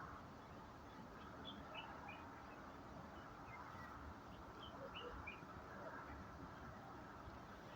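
Faint chirping of small birds: short, high chirps scattered throughout, over a low steady background hiss.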